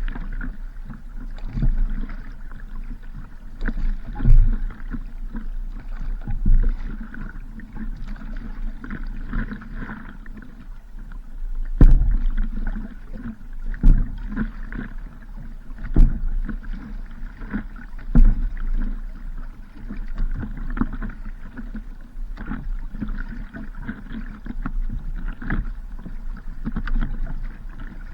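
A small paddled boat on the water: a paddle stroke knocking and splashing about every two seconds over a steady low background noise.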